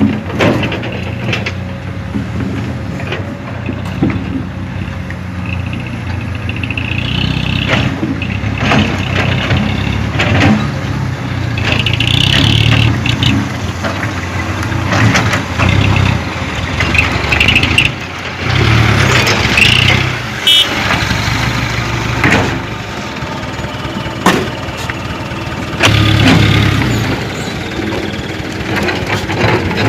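Diesel engine of a light dump truck running and revving under heavy load, its note swelling and dropping several times, with occasional sharp knocks.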